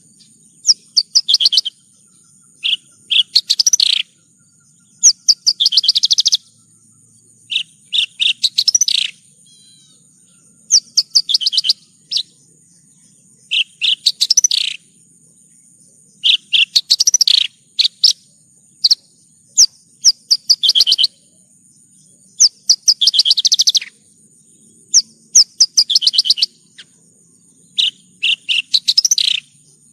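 Javan bush lark (branjangan) singing: a series of short, rapid phrases of quick high chirps and trills, about one phrase every two seconds with brief pauses between.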